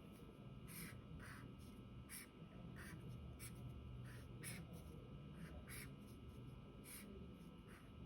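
Faint strokes of a black felt-tip sketch pen on drawing paper while outlining, short scratchy strokes coming irregularly about once or twice a second over a low room hum.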